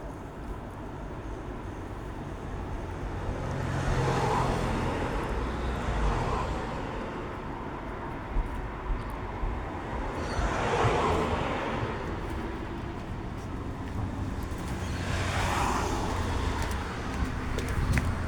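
Road traffic: about four cars passing one after another over a steady low rumble, each rising and fading over a couple of seconds.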